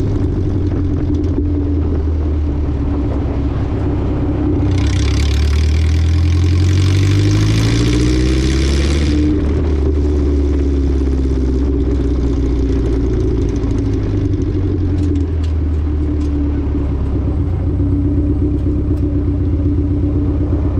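Honda Civic's four-cylinder engine running as the car rolls along at low speed, heard close up from the front of the car. About five seconds in its pitch rises steadily for a few seconds with a hiss over it as the car accelerates, then it settles back to a steady cruise.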